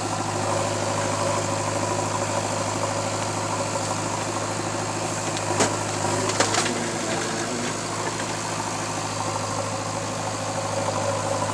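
Diesel engine running steadily at low speed, a continuous low hum, with a few short sharp clacks a little past halfway.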